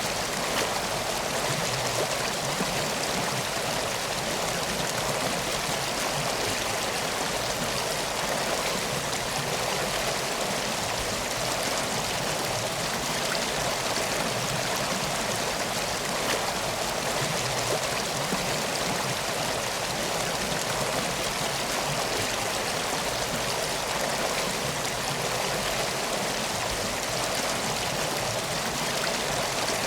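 Steady rushing of flowing water from a river, even and unbroken.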